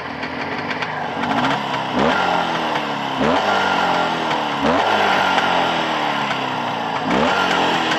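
Jawa 634 two-stroke twin-cylinder motorcycle engine, freshly rebuilt and still being run in, revved again and again: each blip of the throttle sends the revs up sharply before they fall back, about once every second and a quarter.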